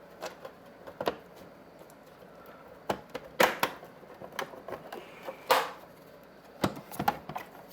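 Scattered plastic clicks and knocks as parts of a TiVo Roamio box are pressed down into their plastic side clips, the loudest snaps about three and a half and five and a half seconds in, with a quick run of clicks near the end.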